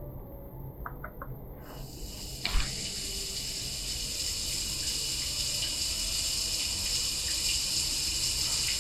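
A short knock about two and a half seconds in, then a spa shower spraying water steadily, a hiss that builds slowly.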